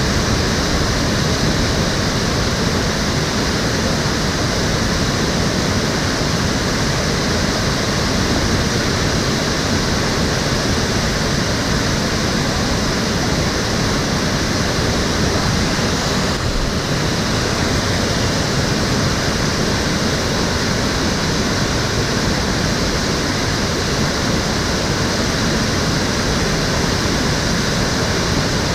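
Water of a shallow urban stream flowing and splashing, a steady loud rushing with no change.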